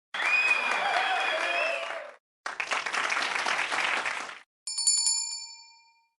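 Outro sound effects: two bursts of applause-like noise, the first with a wavering tone over it. They are followed near the end by a single bell ding that rings out and fades.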